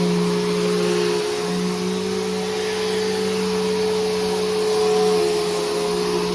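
Bissell Powerforce Helix Turbo bagless upright vacuum cleaner running steadily, fitted with a new brushroll and belt: a constant motor tone over a broad airflow hiss. The tone wavers briefly about a second in and again near the end.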